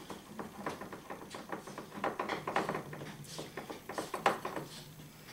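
Spoon clicking and scraping against a mixing bowl as bread stuffing is stirred: a run of irregular light taps, the loudest about four seconds in.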